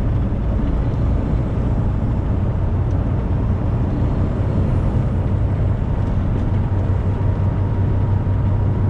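Steady engine drone and road noise of a Freightliner semi truck cruising on the interstate, heard from inside the cab, an even low hum with no changes.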